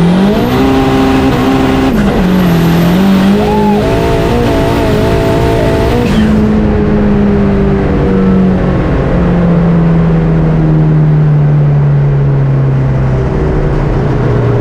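Big-turbo Dodge SRT-4's turbocharged engine pulling hard at full throttle. Its pitch climbs, drops with a gear change about two seconds in, then climbs again. About six seconds in the driver lifts off, and the pitch falls steadily as the car slows.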